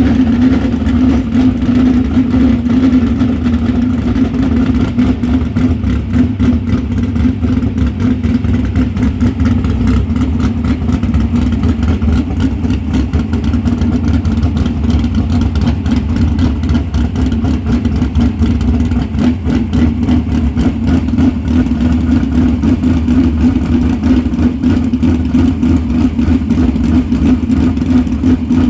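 A car engine running loudly at a steady speed, with an even, rapid pulsing that holds the same pitch throughout.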